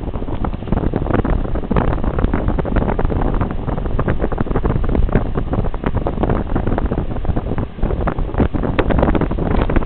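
16-inch Brown Galaxy table fan running, its airflow buffeting the microphone as a loud, steady rush of wind noise.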